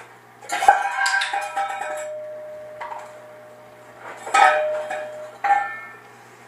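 Metal clanking in three bouts. The first clatter, about half a second in, leaves a steady ringing tone for about three seconds. A second strike a little after four seconds rings for about a second, and a short clank follows soon after.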